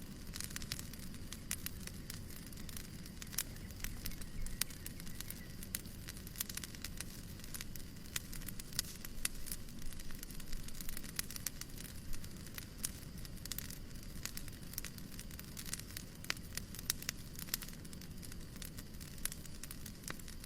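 Wood fire crackling in a fireplace: many irregular sharp snaps and pops over a steady low rumble and hiss.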